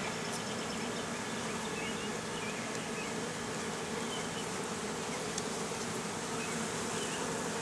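Honeybees buzzing in a steady, even hum over an opened hive.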